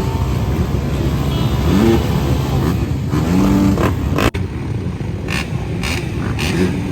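Motocross bike engines revving up and down in pitch over a loud, dense roar, with a sudden break about four seconds in.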